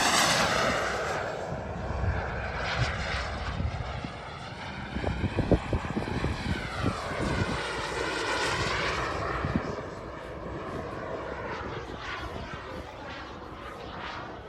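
JetCat 300 Pro turbine in a BVM Desperado RC jet whining through a fast flyby. It is loudest at the start, and its pitch drops as it passes. It swells again about halfway through, then fades toward the end. A few low thumps come just before the middle.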